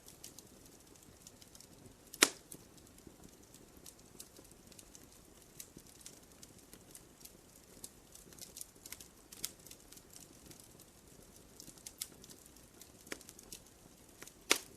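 Wood fire crackling, with irregular small snaps and a few louder pops: one about two seconds in and a pair near the end.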